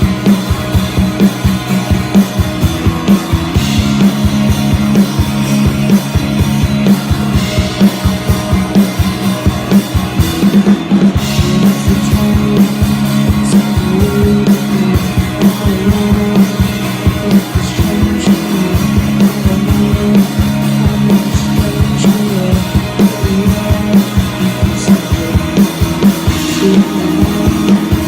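A live rock band playing an instrumental passage: drum kit keeping a steady beat under electric guitar.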